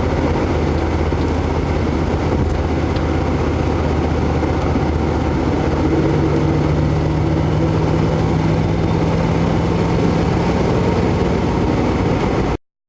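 1995 Cadillac Fleetwood's LT1 V8 running steadily, with a shift in its tone about halfway through; the owner calls its exhaust clanky and noisy. The sound cuts off abruptly near the end.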